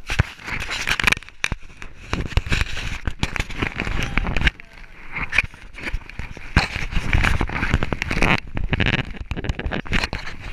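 Irregular crackling, scraping and bumping from a GoPro worn by a dog: the casing and harness rub and jolt as the dog moves, with dense clicks and heavy thumps.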